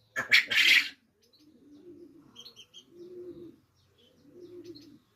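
Pigeons cooing, a low repeated coo about every second or so, with small birds chirping high above them. A loud, brief rustling burst in the first second is the loudest sound.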